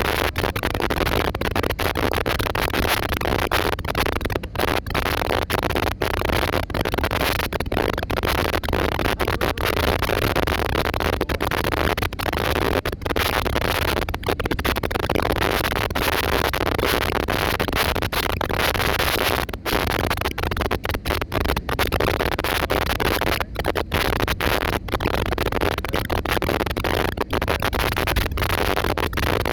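Steady, loud rushing noise, broken many times by very brief dropouts.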